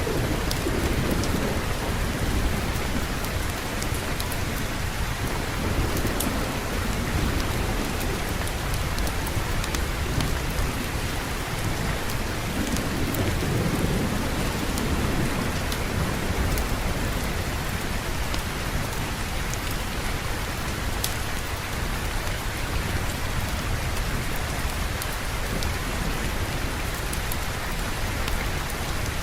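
Steady heavy rainfall with low rolling thunder, swelling near the start and again about halfway through, and scattered sharp ticks over the top.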